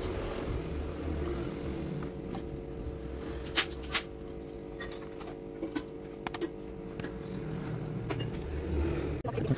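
Plastic model pieces clicking and knocking as they are handled and fitted, several sharp clicks, two of them louder a few seconds in, over a steady low hum.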